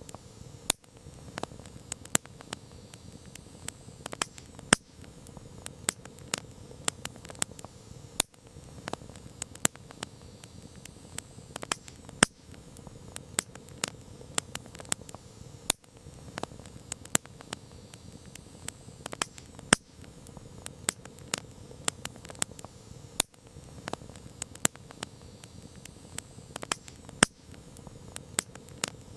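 Campfire crackling: irregular sharp pops and snaps from burning wood, several a second, over a steady low rush of flames.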